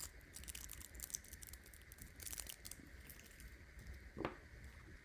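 Faint crinkling and small clicks of hands handling blocks of polymer clay and their packaging, with a single light knock about four seconds in.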